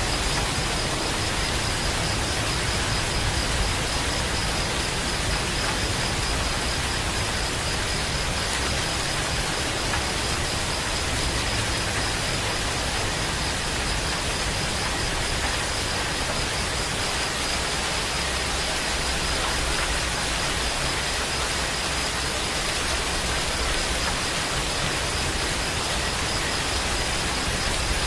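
Steady, heavy rain falling as an even hiss, with no breaks or separate drops standing out.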